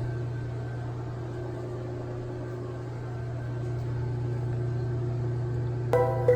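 Steady hum of a car cabin while driving. About a second before the end, bright bell-like chime notes begin, struck twice.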